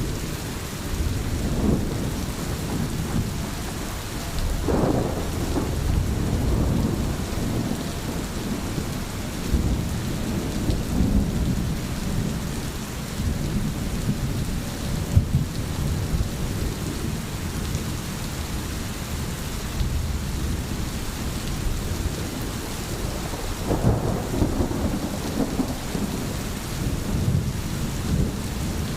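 Heavy rain falling steadily, with a low rumble that swells and fades throughout.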